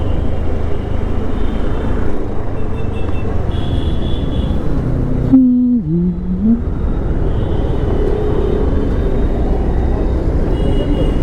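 Steady low rumble of a motorcycle ride picked up by the rider's camera microphone: engine and wind noise. It drops out briefly about five seconds in, when a short pitched sound is heard.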